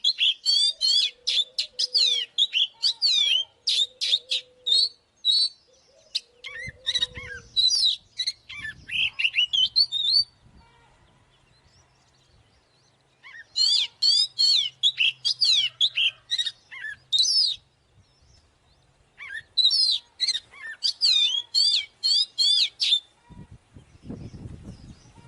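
Oriental magpie-robin singing: rapid runs of sweeping whistles and chirps in four bursts, with short pauses between them.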